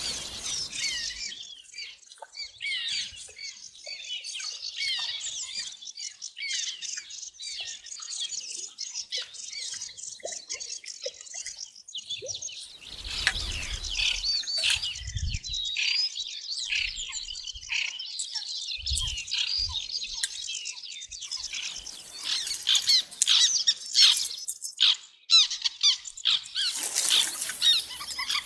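A chorus of songbirds singing, with many overlapping whistled phrases and trills. A few short low rumbles come around the middle.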